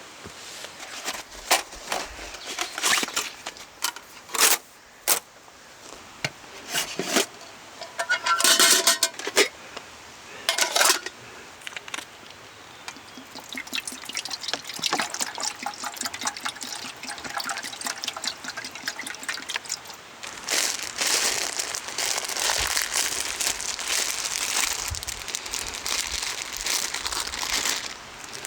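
Scattered clicks and knocks of handled gear, then liquid being poured in a long hissing stretch near the end.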